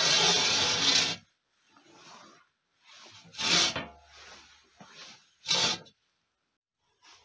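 Bricks scraping and grating against each other and on stone as a brick stove is laid: a long rough scrape that stops about a second in, then two shorter scrapes with quieter shuffling between.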